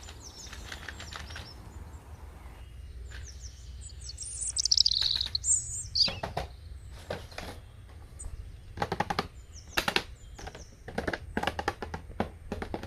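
Plastic toy packaging and figures being handled: scattered rustles and sharp clicks, with a brief high squeak falling in pitch about four to five seconds in.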